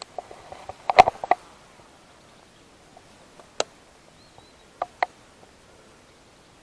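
A quick flurry of sharp clicks and knocks about a second in, then a single click and, a little later, a pair of clicks.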